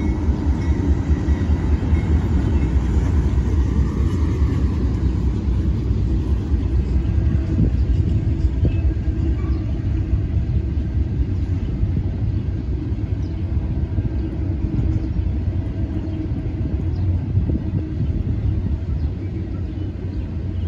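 Freight train passing a grade crossing, locomotives giving way to double-stack intermodal container cars. A loud, steady rumble of the train rolling by.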